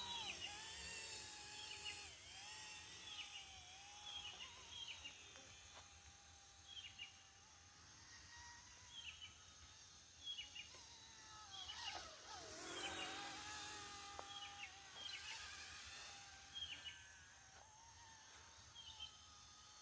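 Faint high-pitched whine of a small electric RC motor, wavering in pitch and dipping briefly about two-thirds of the way through, with birds chirping repeatedly over it.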